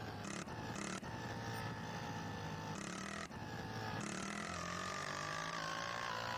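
Honda CG 160 Titan motorcycle's single-cylinder engine running at low revs, its pitch drifting slightly.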